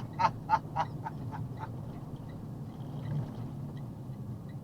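A short chuckle of about seven quick, fading pulses over the steady low hum of the box truck's engine in the cab, followed by faint regular ticking.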